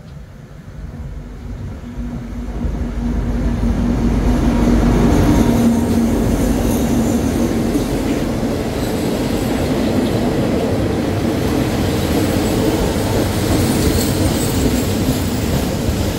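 Diesel locomotive running in close along the platform, its engine rumble and a steady hum growing louder over the first few seconds. The passenger coaches behind it then roll past with a steady sound of wheels on the rails.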